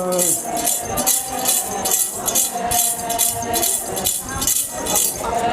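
Metal jingles shaken in a steady beat, about two strokes a second, keeping time for Ponung dance song, with faint sung voices under them.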